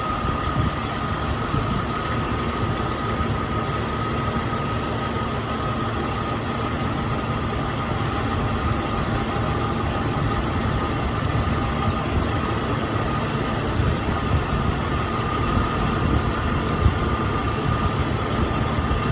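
2000 Jeep Cherokee XJ's engine idling steadily, with a thin steady high whine over the low running noise, as it warms up while air is bled from the cooling system.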